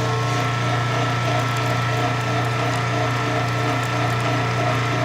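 1993 Kenmore 80 Series washer running in neutral drain: a steady motor hum with its drain pump running and a regular mechanical chatter from the drive, a running sound the owner likes for its growl.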